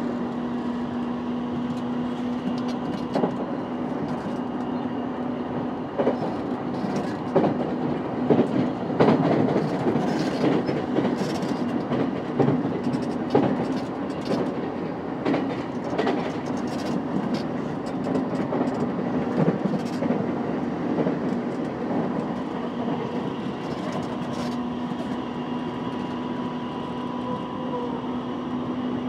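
JR East E233-5000 series electric train running at speed: a steady motor and inverter hum with many sharp wheel clicks over the rails through the middle stretch, the motor tone shifting slightly near the end.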